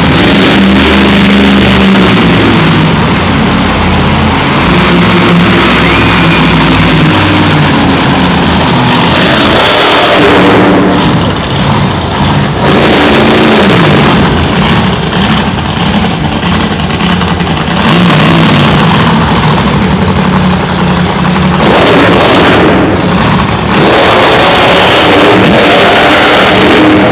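Monster truck engine revving hard at high throttle, very loud, its pitch rising and falling several times.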